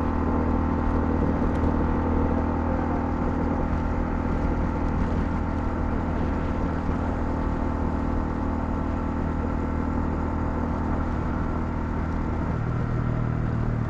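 Honda CL250 motorcycle engine running steadily while riding, with a steady rush of wind and road noise. About twelve seconds in, the engine note shifts to a new pitch.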